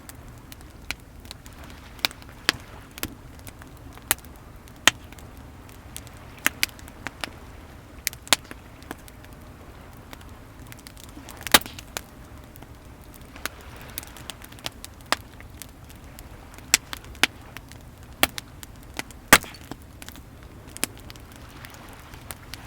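Wood bonfire crackling, with sharp irregular pops about once a second, two of them louder near the middle and toward the end, over a steady low wash of waves.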